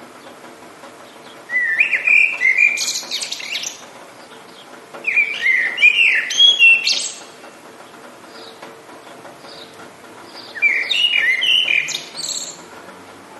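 A songbird singing three short phrases of quick, clear whistled notes and falling sweeps, each about two seconds long with pauses of a few seconds between, over a steady faint hiss.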